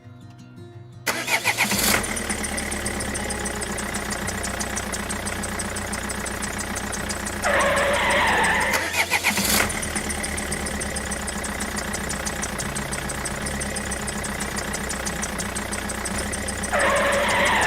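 An engine starts about a second in and runs steadily with a fast, even pulse. There are two short hissing bursts, one in the middle and one near the end.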